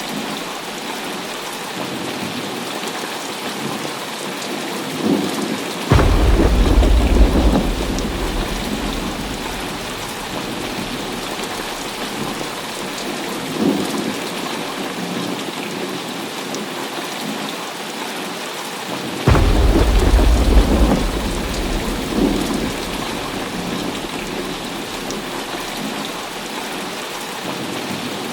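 Heavy rain falling steadily, with two loud claps of thunder that break in suddenly about six seconds in and again near twenty seconds, each rolling on deep and low for a few seconds before fading back under the rain; a fainter rumble comes between them.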